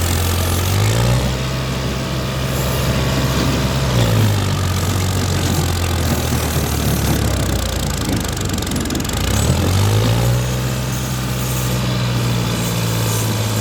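New Holland 3630 tractor's diesel engine running. It revs up about a second in, drops back to idle around four seconds, and revs up again near ten seconds, where it holds.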